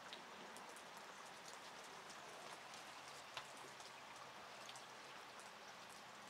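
Light rain falling, faint, with scattered drops ticking; one slightly sharper drop about halfway through.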